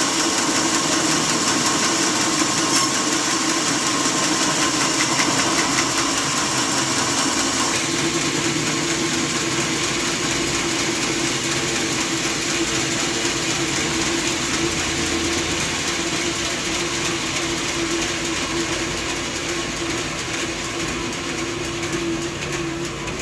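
Sawmill saw machinery running steadily with a constant hum, a high hiss on top that eases about eight seconds in.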